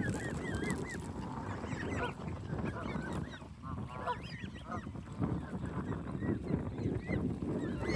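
A flock of hungry waterfowl, mostly geese, honking over and over in many short, overlapping calls.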